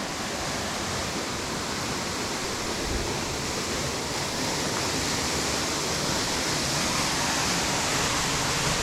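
Steady rushing of a waterfall, an even noise that holds at a constant level.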